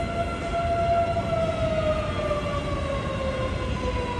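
Electric train's motor whine, holding one pitch and then, a little over a second in, gliding slowly and smoothly downward as the train slows, over a steady low rumble.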